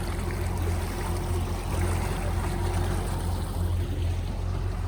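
A 300 hp Yamaha outboard on a bay boat running steadily under way. A low, even hum sits under the rush of water along the hull.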